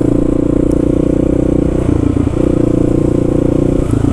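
Kawasaki KLR650's single-cylinder engine running under way, a steady drone that dips briefly about two seconds in and again near the end, as with a gear change or a roll-off of the throttle.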